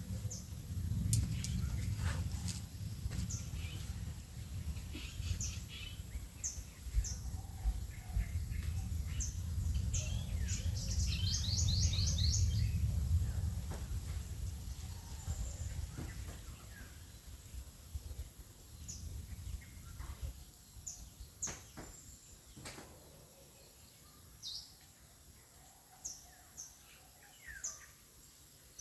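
Small birds chirping, with short high calls scattered throughout and a quick trill of repeated notes about eleven seconds in. A low rumble runs under the first half or more, then fades out.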